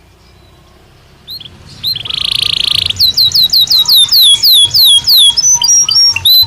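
Belgian canary singing. After a second of quiet come a few short chirps, then a rapid buzzy trill, then a run of quick falling whistled notes at about three a second, and a few level whistled notes near the end.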